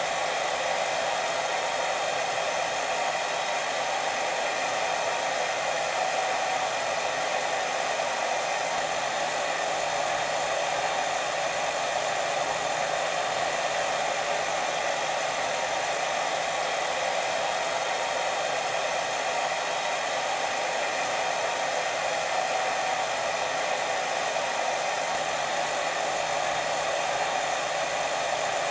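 Steady white noise for sleep: an even, unbroken hiss with no pauses or rhythm.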